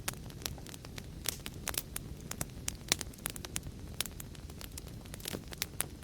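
Fire crackling steadily: a low rumble of burning with irregular sharp pops and snaps several times a second, one louder pop near the middle.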